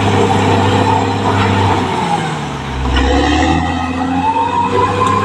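Caterpillar D6R XL bulldozer's diesel engine running under load. About two seconds in, the engine note drops and dips in loudness, then rises again toward the end, with a whining tone gliding up and down alongside it.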